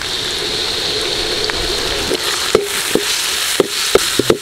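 Chopped tomatoes dropped into hot oil in a metal kadai, sizzling at once and holding a steady sizzle. From about halfway through, a metal spatula stirring them clicks and scrapes against the pan several times.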